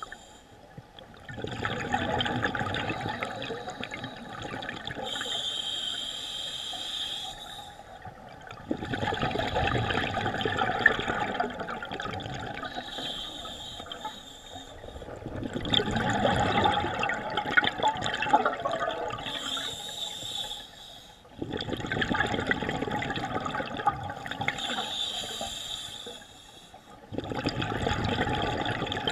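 A scuba diver breathing through a regulator underwater. Short hissing inhalations alternate with long gurgling rushes of exhaled bubbles, about five breaths, one every six seconds or so.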